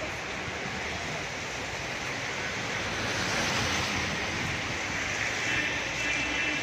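Heavy rain falling in a steady hiss, growing louder about halfway through.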